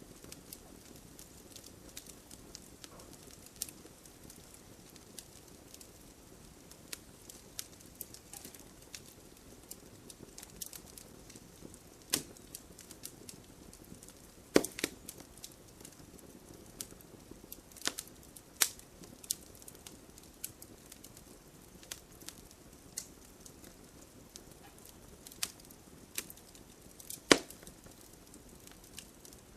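Wood campfire crackling: a low steady hiss of burning with scattered sharp pops and snaps at irregular intervals, a few louder ones standing out.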